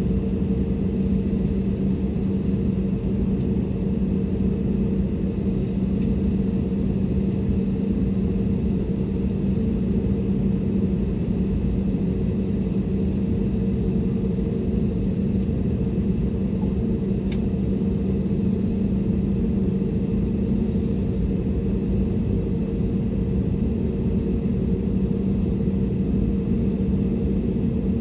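Steady cabin drone of an Airbus A320neo: a low rumble with an even hum running underneath, unchanging throughout.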